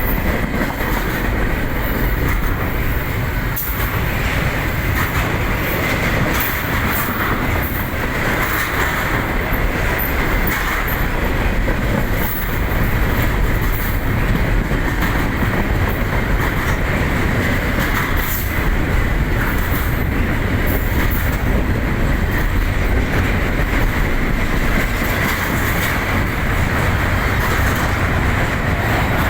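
Train cars rolling past, a steady loud rumble of steel wheels on the rails with scattered clicks from the rail joints and a thin high tone running underneath.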